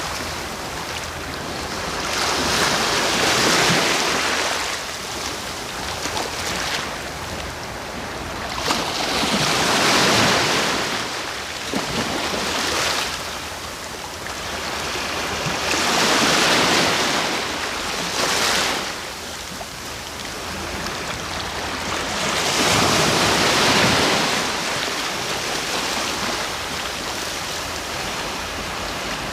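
Sea waves breaking on the shore, each one swelling into a hiss and washing back, about every six seconds over a constant surf wash.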